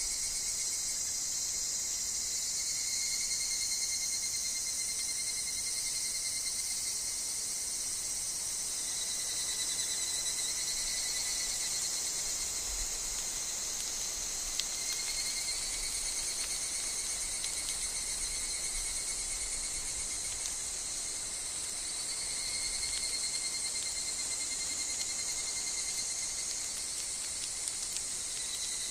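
Continuous chorus of higurashi (evening cicadas) and other insects, a steady high shrill that never pauses, with one faint tick about halfway through.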